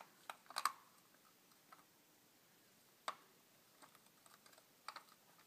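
Faint, scattered plastic clicks and taps from a toy airplane being handled: the pilot figure being put back in and the toy snapped closed. There is a small cluster of clicks near the start, a single click a little past halfway, and a few more near the end.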